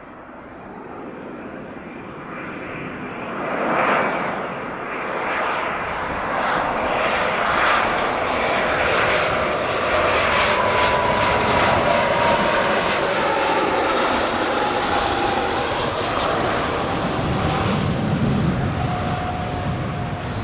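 Dassault Falcon 7X business jet landing. Its engines' roar builds over the first few seconds as it comes in, then a whine slides slowly down in pitch as it passes.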